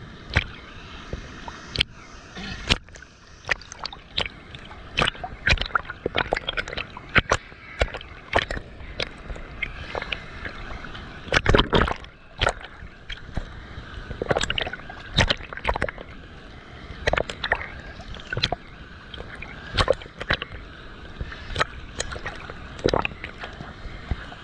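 Waterfall water splashing and sloshing: a steady rush broken by many irregular sharp splashes.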